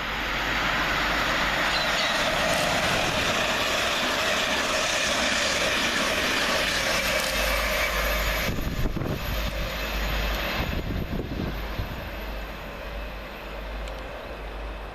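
A pair of coupled Class 387 electric multiple units running through the station: a steady rush of wheel-on-rail and passing-train noise that builds in the first second and holds for about eight seconds. After that, low gusty rumbles of slipstream buffeting the microphone as the train's tail goes by, and the sound eases off.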